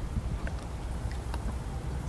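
Low rumble of an approaching diesel-hauled passenger train, with wind buffeting the microphone and a few faint ticks.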